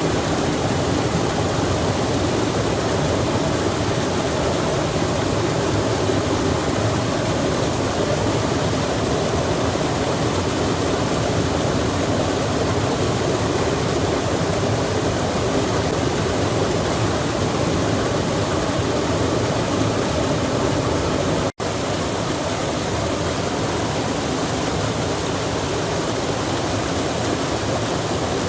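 Steady, even rushing of flowing water, broken once by a split-second dropout about three quarters of the way through.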